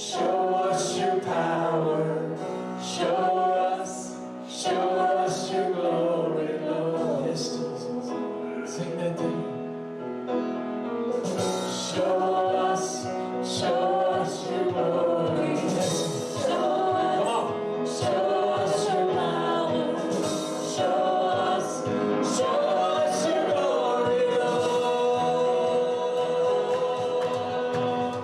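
Gospel worship song: a group of voices singing together over instrumental backing with regular percussion strikes. The low end fills out about eleven seconds in, as the bass comes in.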